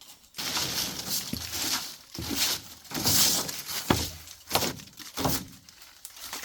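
Dry leaves and debris rustling and crackling in irregular bursts, loudest about three seconds in.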